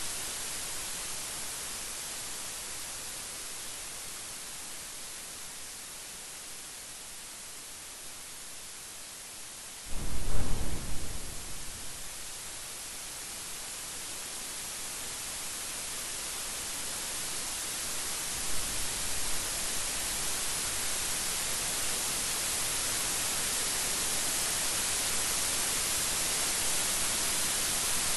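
Steady rain hissing, with one sudden loud crack of thunder about ten seconds in that rumbles away over a couple of seconds. The rain grows louder toward the end.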